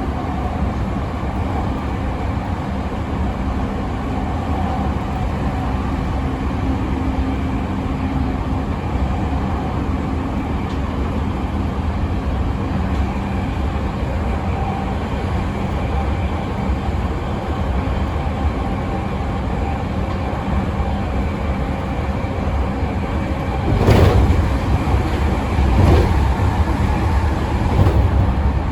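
E217 series electric train running, heard from on board: a steady rumble of wheels on rail with the faint, steady whine of its Mitsubishi IGBT traction inverter. Near the end come three heavier clatters from the running gear, about two seconds apart.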